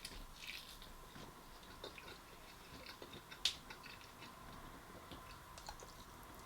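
A person chewing and biting meat off a rib close to the microphone, with small wet clicks. There is a sharper click about three and a half seconds in.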